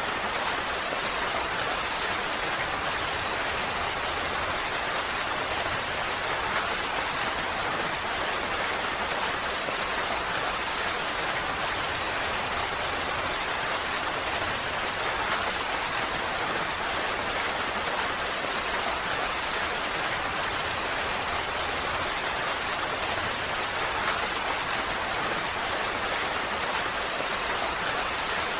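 Steady rain falling, an even hiss with no letup, with an occasional faint tick.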